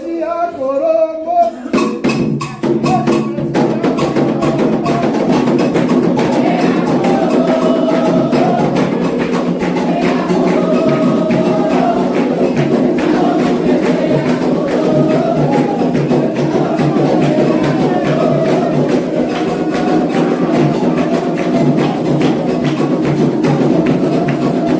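Candomblé drumming for Ogum: a fast, steady rhythm of hand drums and a struck bell, with group singing over it. The full percussion comes in about two seconds in.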